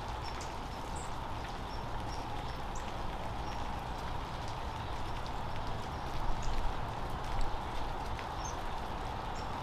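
Birds at a feeder: scattered short, high chirps and light taps over a steady outdoor hiss, with a few louder knocks about six to seven seconds in.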